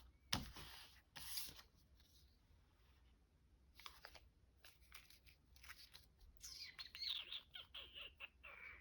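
Faint paper handling: scattered soft rustles and small taps, with a thin squeak that falls in pitch near the end.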